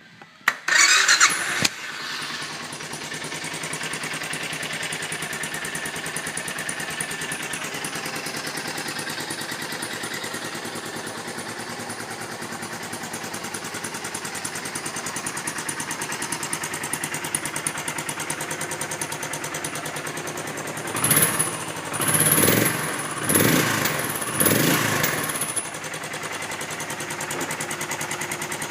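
Suzuki S40 Boulevard's 650cc single-cylinder four-stroke engine starting up about half a second in, then idling steadily with an even thumping pulse. Near the end the throttle is blipped four times, each rev rising and dropping back to idle.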